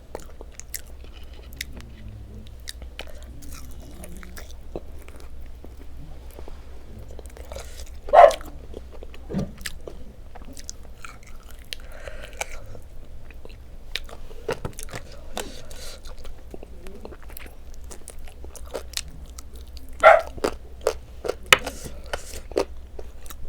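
Close-up eating sounds: chewing and biting into food, with crunchy bites and scattered clicks from the mouth. Two short, louder sounds stand out, about eight and twenty seconds in.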